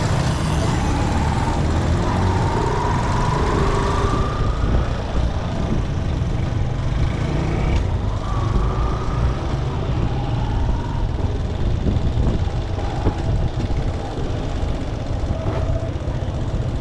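Motorcycle riding on a road: a steady low engine and wind rumble with road noise. A faint engine tone rises slowly in pitch over the first few seconds and again briefly later, as the bike picks up speed.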